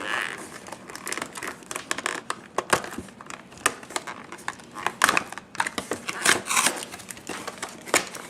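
Toy box packaging being handled and opened: plastic and cardboard crinkling, with many quick clicks and taps.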